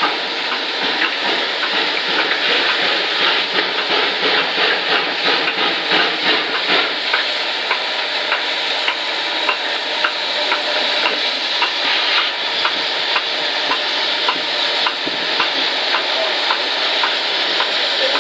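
Standing steam locomotive 34052 Lord Dowding giving a steady hiss, thick with rapid crackling from its coal fire.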